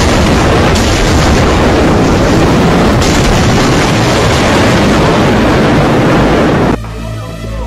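Strong storm wind buffeting the microphone: a loud, rushing, rumbling noise that starts abruptly and cuts off suddenly near the end.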